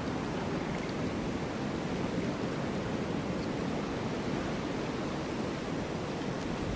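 Snowstorm wind blowing: a steady, even rush with no distinct gusts.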